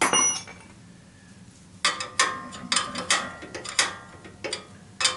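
Metal tools and parts clinking and knocking together in hand work on a boiler: a sharp clank right at the start, then a quick run of about eight ringing clinks, and one more near the end.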